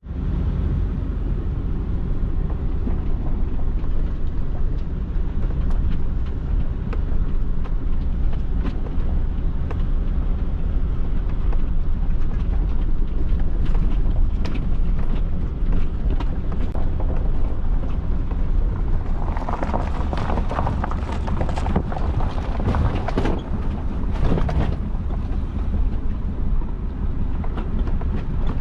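An engine running steadily with a deep rumble, overlaid by frequent rattles and knocks, with heavier clattering for several seconds past the middle.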